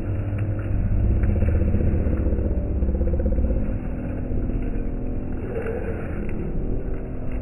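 Train running through the station with a steady low rumble and engine drone, easing somewhat about four seconds in, with a few faint clanks over it.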